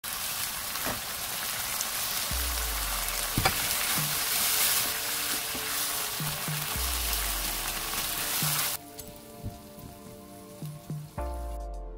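Sliced pork and cabbage in a soybean-paste sauce sizzling in a nonstick frying pan as they are stirred with a silicone spatula. The sizzle stops abruptly about nine seconds in, leaving soft background music.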